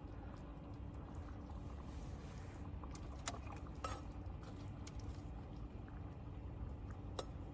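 Food simmering in an electric rice cooker: a steady, low bubbling with a faint hum, and a few light clicks.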